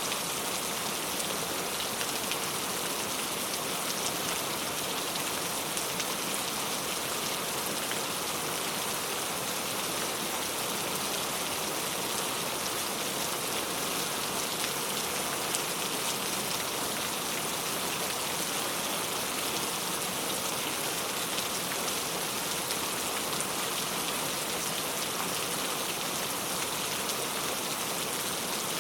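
Heavy rain falling steadily: a dense, even hiss of drops with faint patter.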